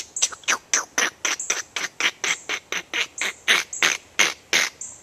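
Footsteps crunching through dry leaf litter at a quick pace, about four steps a second, stopping shortly before the end.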